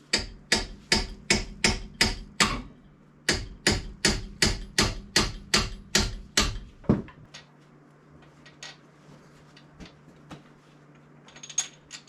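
Hand hammer repeatedly striking a stuck part to knock it free, about three blows a second, with a short pause about three seconds in and the blows stopping about seven seconds in.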